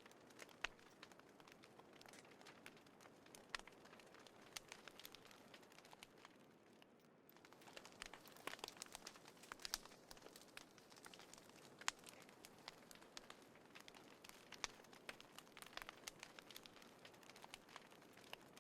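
Faint wood fire crackling in a small folding fire pit: scattered sharp pops and snaps over a soft hiss, busier from about halfway through.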